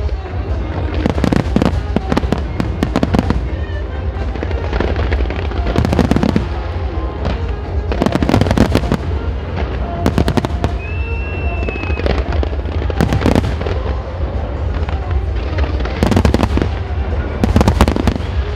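Professional display fireworks, aerial shells and low-level comet fans, going off in dense volleys: clusters of sharp bursts every second or two with crackling between them, over a constant low rumble.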